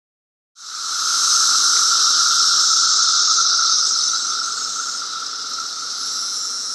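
17-year periodical cicadas singing: a loud, steady, hissing buzz that starts about half a second in and eases slightly after about four seconds.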